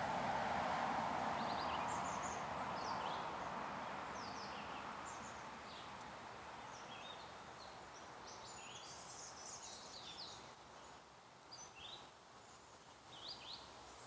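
Small birds chirping in short, high notes scattered throughout, over a broad background hiss that fades away over the first several seconds.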